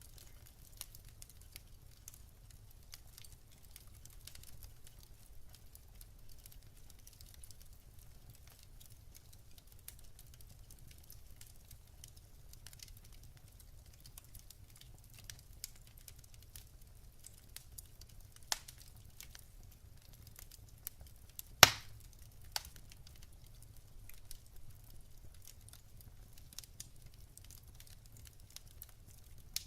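Wood fire burning in a fireplace: steady soft crackling of burning logs, with a loud sharp pop about two-thirds of the way through and a few smaller pops around it.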